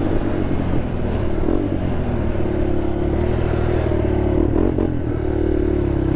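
Honda TRX sport quad's engine running under throttle while riding off road, its pitch dipping and rising a little with the throttle.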